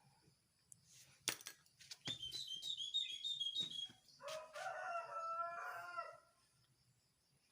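Pet jalak (starling) calling: a rapid string of high chirps, then a longer pitched call lasting about two seconds.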